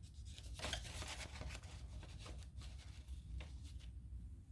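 Faint scattered rustling and light handling noises over a low steady hum.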